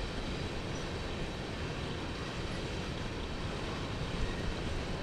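A train going past: a steady, even rumble.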